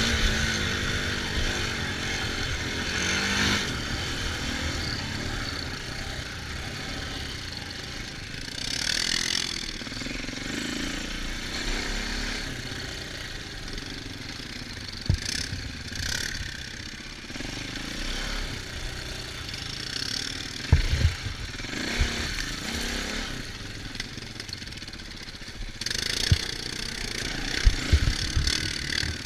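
Dirt bike engine running under riding load, its pitch rising and falling with the throttle, over a steady rush of noise. A few sharp low thumps come near the middle and again near the end.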